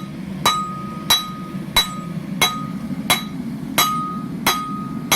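Blacksmith's hammer striking hot steel on an anvil, flattening the head of a forged leaf: eight even blows, about one and a half a second, each with a short metallic ring.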